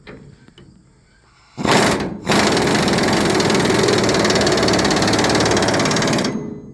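Impact wrench hammering bolts tight on a combine corn head's sprocket mounting: a short burst about a second and a half in, a brief pause, then about four seconds of steady, rapid hammering that stops near the end.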